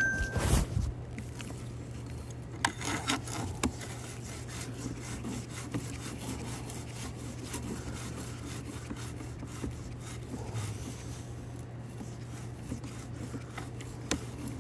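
Sewer inspection camera's push cable rubbing and scraping as it is fed through a drain line, with irregular clicks and knocks, over a steady low hum.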